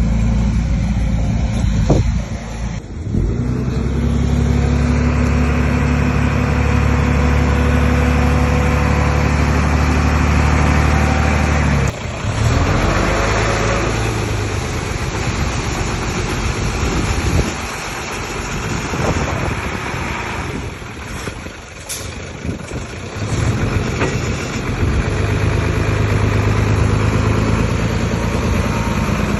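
Bulldozer's diesel engine working, its note and load changing: a steady drone that changes suddenly about twelve seconds in to a rougher, rising and falling sound, then steadies again near the end.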